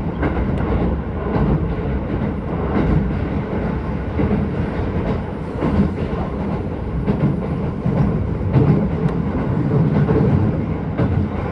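Keisei 3000-series electric train running at speed, heard from inside the carriage: a steady rumble of wheels on rail, with short clicks and knocks scattered through it.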